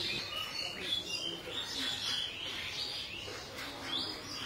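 Small birds chirping, many quick overlapping chirps without a break.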